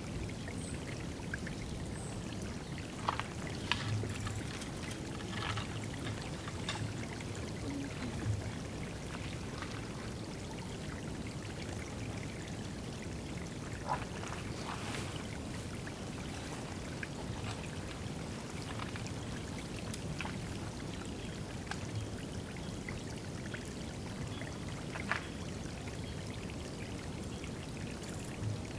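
Water running steadily at a woodland bird-bathing spot, pouring and trickling, with a few short faint sounds now and then.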